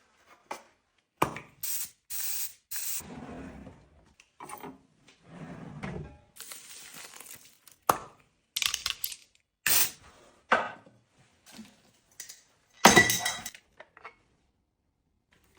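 Household containers and objects being handled and set down: a run of clicks, taps, knocks and short rustles, with the loudest a ringing clink of glass or hard plastic about thirteen seconds in.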